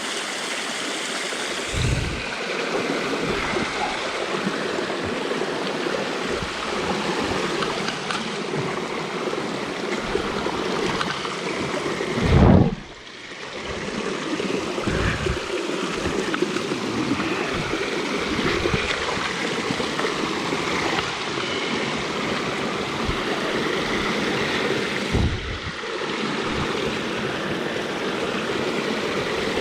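Cold spring water running and splashing out of a hillside cave: a steady rushing flow. A few low bumps break in, the loudest about halfway through.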